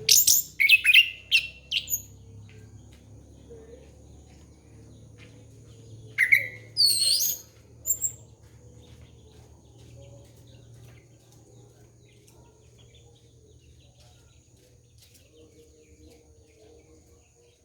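Orange-headed thrush (anis kembang) singing: two short bursts of loud, quick whistled phrases sweeping up and down in pitch, one at the start and another about six seconds in, with a low hum between them.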